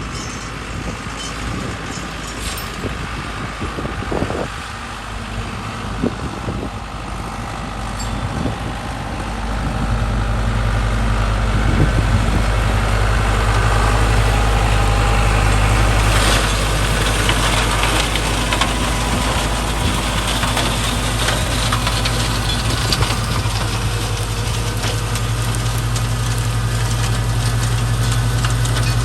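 Small tractor engine running steadily while driving a Trident flail mower, getting louder from about ten seconds in.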